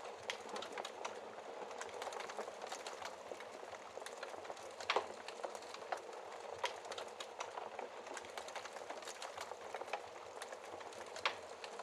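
Wood fire crackling in a fireplace: a steady hiss of burning with frequent small crackles. Louder snaps come about five seconds in and again near the end.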